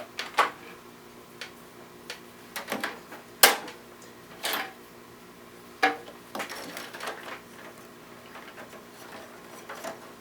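Hands working inside a Compaq Presario 5000 desktop case: scattered clicks and knocks as IDE ribbon cables are plugged into the CD drives and the drive bay is locked up. The sharpest click comes about three and a half seconds in.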